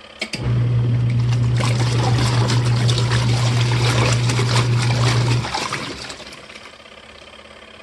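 Auertech portable twin-tub washing machine's wash motor running with a steady hum while water sloshes in the tub, starting about half a second in and stopping after about five seconds, like the on-off agitation of a wash cycle.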